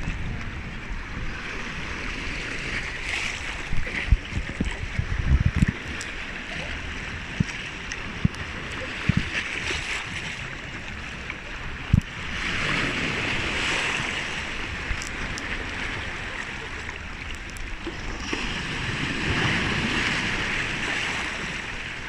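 Sea waves washing onto the shore, swelling louder twice: about halfway through and again near the end. Wind buffets the microphone with low thumps through the first half.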